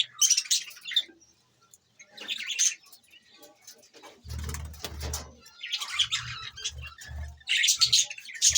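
Budgerigars chirping and chattering in quick high bursts, several times, with a few low thuds in the middle.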